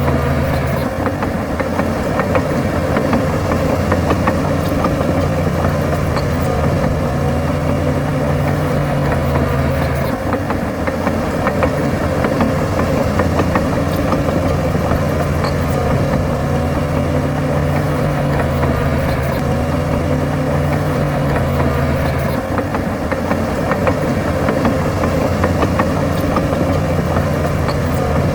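Bulldozer's heavy diesel engine running steadily, its pitch dipping and recovering a couple of times.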